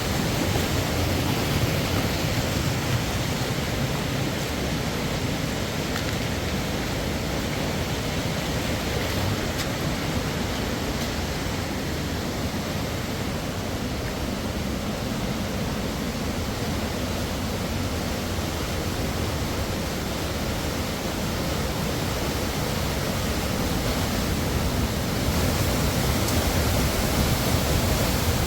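Steady, unbroken rushing of water, growing a little louder near the end.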